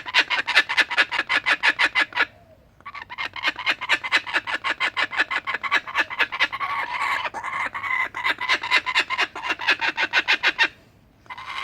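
Laughing kookaburras calling in chorus: rapid, harsh chattering cackles in two long bouts, the first breaking off after about two seconds, the second running until near the end.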